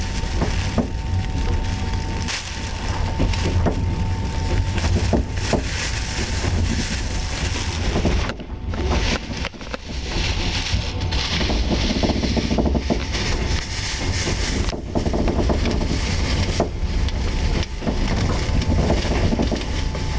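Express passenger train carriage in motion, heard from inside: wheels rumbling on the rails with frequent knocks and clicks over rail joints, the carriage rattling. A faint steady whine is heard at the start and again near the end.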